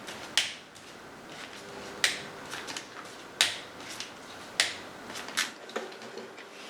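A series of sharp clicks and light knocks from objects being handled, about six in all and roughly a second apart.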